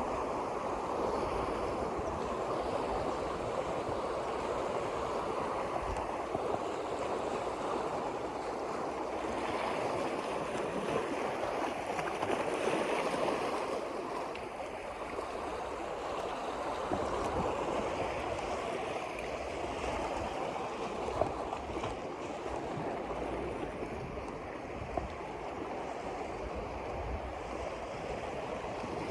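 Steady wash of water and small waves, with wind buffeting the microphone and a couple of brief knocks.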